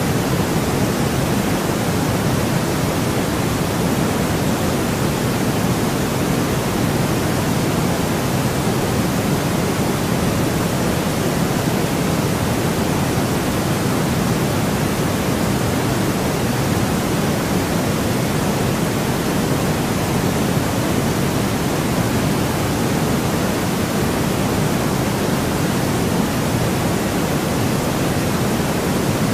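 Steady white noise, an even, unchanging hiss with more weight in the lows than the highs.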